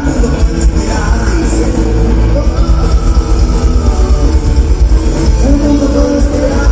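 A live rock band playing loud, with singing over heavy bass and drums.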